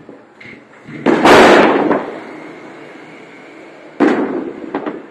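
Fireworks going off: a loud bang about a second in that dies away over about a second, then a sharp crack about four seconds in followed by a few smaller pops.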